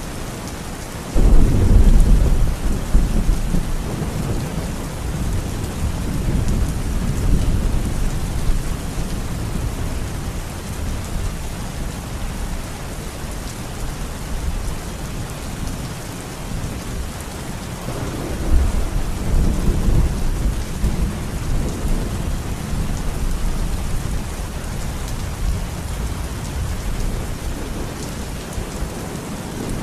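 Steady heavy rain with thunder: a sudden loud rumble about a second in that fades slowly, and a second rumble starting about 18 seconds in.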